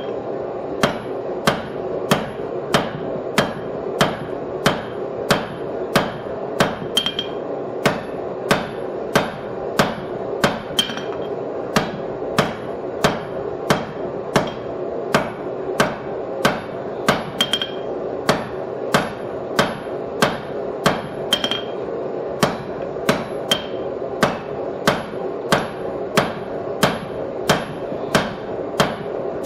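Hand hammer striking hot steel on an anvil in a steady rhythm, about three blows every two seconds, with the anvil ringing on between blows as the stock for a bottom fuller is drawn out.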